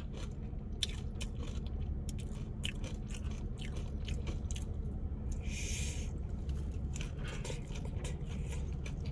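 Close-miked chewing of a forkful of Cava salad bowl, with crisp crunches and wet mouth clicks, over a low steady hum. A brief hiss comes about five and a half seconds in.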